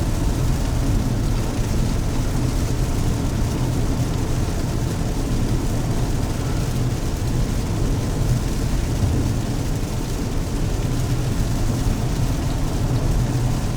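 Steady road and engine noise inside a moving car's cabin, an even low rumble without breaks.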